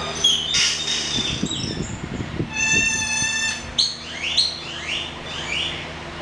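Birds calling: short high chirps, a held whistled note in the middle, then a string of quick falling chirps, over a steady low hum.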